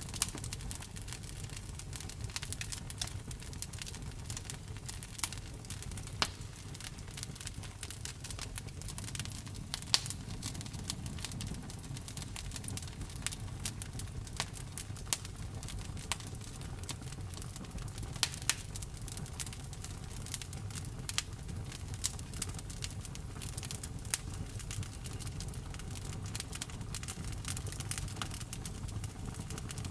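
Wood fire burning, crackling with frequent sharp, irregular pops over a steady low rumble.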